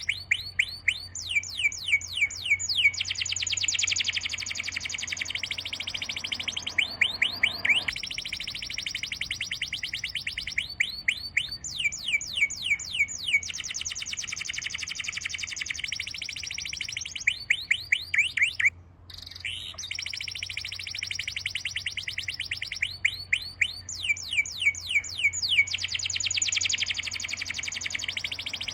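Birds singing: one bird repeats a phrase of rapid, sweeping chirps every four to six seconds over a continuous high, trilling chorus. The sound drops out briefly about two-thirds of the way through.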